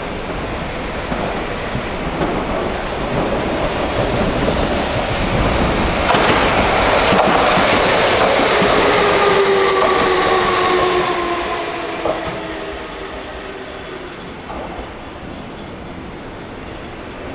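Electric commuter train coming out of a tunnel and running past the platform, with wheels clattering on the rails. The sound grows to its loudest about halfway through, a whine falls in pitch as the train goes by, and it then fades away.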